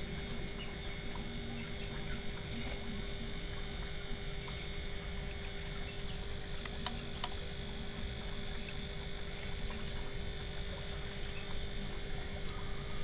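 Steady low rumbling noise with a constant hum and a few faint, short clicks.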